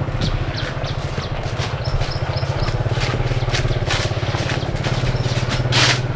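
A small engine running steadily with a fast even pulse, starting just before and carrying on throughout. Scattered sharp clicks and knocks sound over it, with a louder rustling burst near the end.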